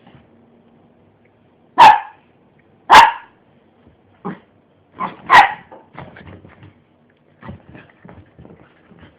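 Pinscher barking in play: three loud, sharp barks about two, three and five and a half seconds in, with a couple of softer barks between them, then a run of quieter short noises.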